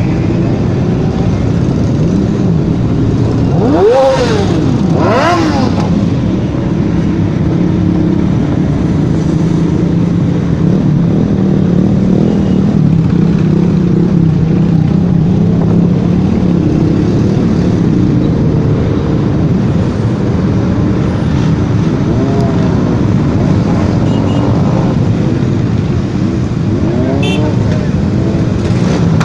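Motorcycle engines running together in a steady drone, with bikes revving up and back down about four seconds in and again near the end.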